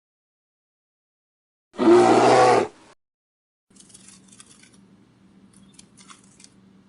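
A farm animal's loud call, about a second long, starting about two seconds in. It is followed by a faint low hum with scattered crunching clicks.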